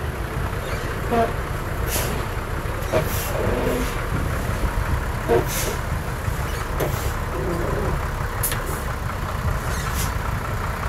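Heavy diesel earthmoving machinery running steadily, with scattered knocks and clanks.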